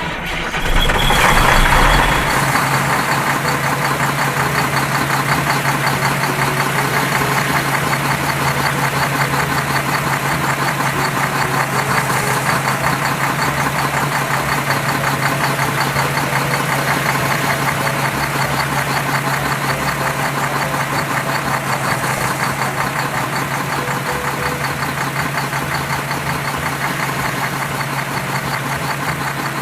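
A vehicle engine, louder for the first two seconds as it starts, then idling steadily with a constant low hum.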